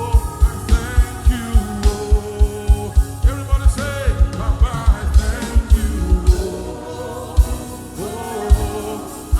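Live gospel praise music: a band with a fast, steady kick-drum beat under singing voices, the melody rising and falling in long runs.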